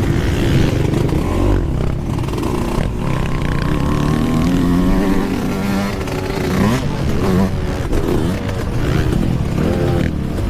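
Yamaha YZ125 two-stroke dirt bike engine being ridden hard, its note rising and falling repeatedly as the throttle opens and closes.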